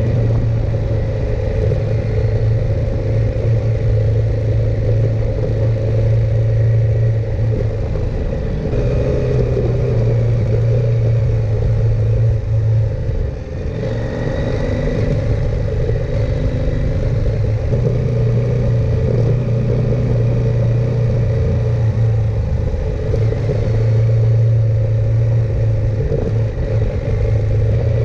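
KTM 890 Adventure R's parallel-twin engine running steadily under way, its note dipping briefly about halfway through before settling back.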